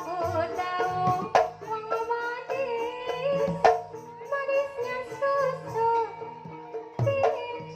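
Sinden singing a wavering Javanese melody over instrumental accompaniment, with sharp drum strokes a few times.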